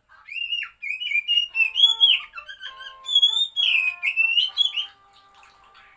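Oriental magpie-robin singing a loud, varied run of whistled phrases, with notes sliding up and down, for about five seconds, then softer, steadier notes near the end.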